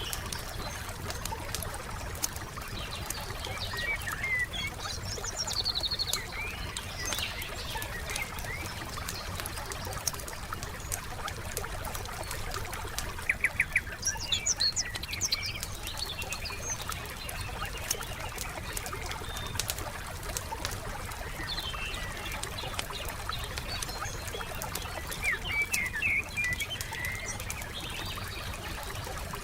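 Campfire crackling with frequent small pops, while songbirds chirp and trill on and off in three short spells.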